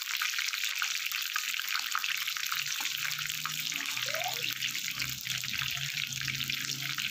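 Coated pork slices shallow-frying in hot oil in a nonstick pan: a steady, dense crackling sizzle.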